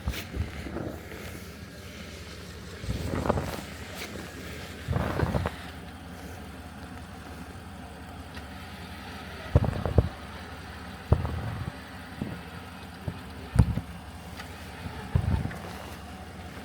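Vehicle engine idling steadily, with a handful of short, irregular knocks and crunches over it.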